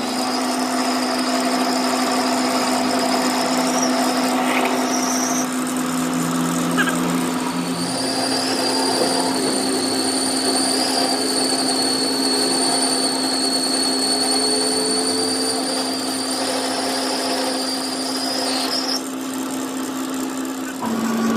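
Workshop machine tool running steadily with a constant motor hum, joined by a thin high-pitched whine that comes in briefly near the start and again from about 8 seconds in to about 19 seconds.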